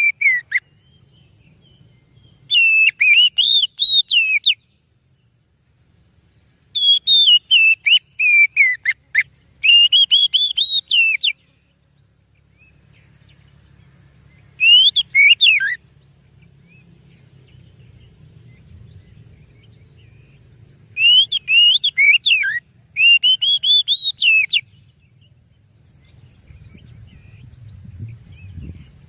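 Oriental magpie-robin (kacer) singing: loud phrases of varied, rapidly changing whistles, each lasting one to two seconds, with pauses of a few seconds between them. A faint low rumble runs underneath and grows louder near the end.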